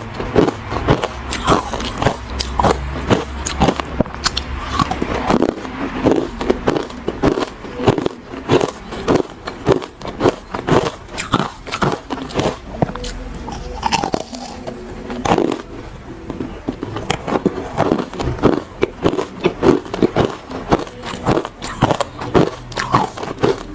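Close-miked biting and chewing of hard ice: a steady, irregular run of sharp crunches, several a second.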